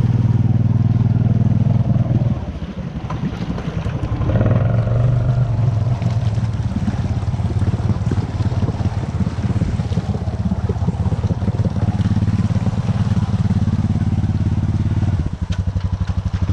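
Honda Rancher 420 four-wheeler's single-cylinder engine running under way; the throttle eases off about two seconds in, picks up again around four seconds, and drops briefly near the end.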